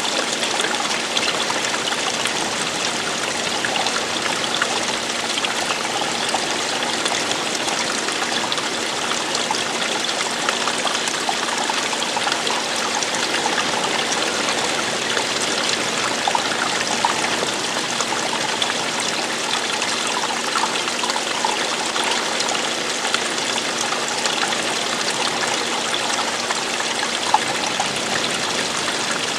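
Running water of a stream or small waterfall: a steady, even rushing and trickling.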